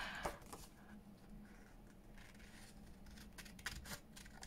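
Scissors faintly snipping paper, cutting closely around a small printed image (fussy cutting), with quiet, irregular snips.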